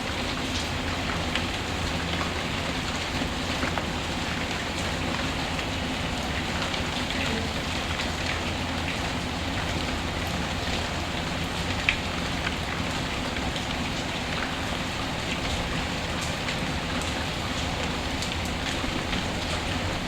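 Steady, even rain with a fireplace crackling underneath: scattered small pops and one sharper, louder pop about twelve seconds in.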